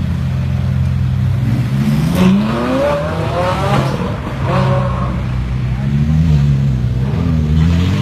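Ferrari 458 V8 engines idling, then revving as the cars pull away, the pitch climbing in several rising sweeps from about two seconds in. It settles briefly and then rises again near the end as the next car moves off.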